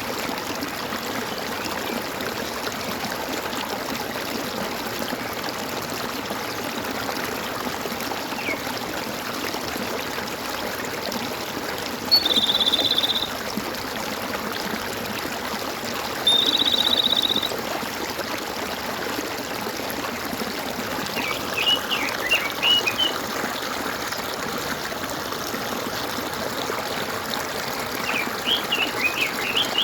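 Steady trickling and gurgling of a flowing stream, with animal calls over it: two buzzy, trilled calls of about a second each, then quick bursts of bird chirps twice later on.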